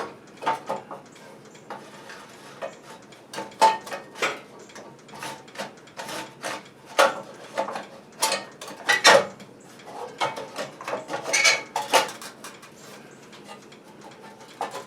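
Metal parts and hand tools clinking and knocking in irregular sharp taps and clanks, as a part is worked onto the tiller.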